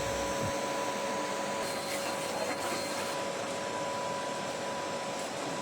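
Steady industrial machine noise: a constant whine with two steady tones over an even hiss, holding level without change.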